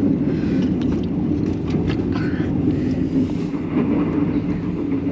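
Steady low rumble of an overnight sleeper train running, heard from inside the carriage.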